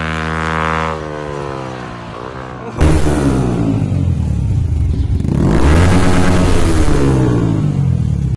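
A motorcycle engine running, its pitch slowly falling. After a sudden cut about three seconds in, a sport motorcycle's engine is revved up and down a few times.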